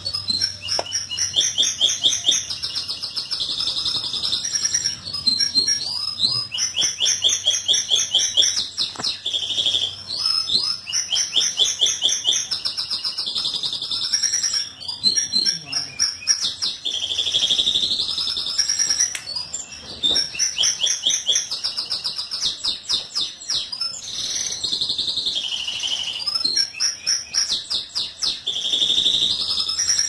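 Songbirds singing continuously in long, high-pitched trilled and warbling phrases of rapidly repeated notes, each phrase a few seconds long with short breaks between.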